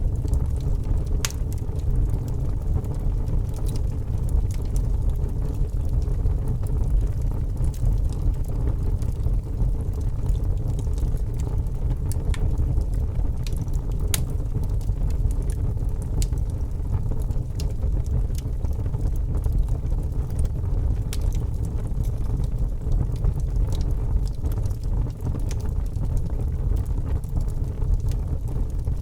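Log fire burning in a fireplace: a steady low rumble of flames with scattered sharp crackles and pops from the wood.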